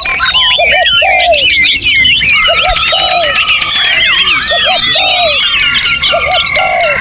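Dense chorus of many songbirds singing at once, a tangle of overlapping whistles, slurred notes and trills. Under it a low phrase of two or three cooing notes repeats about every one and a half seconds, and a fast high trill comes in around the middle.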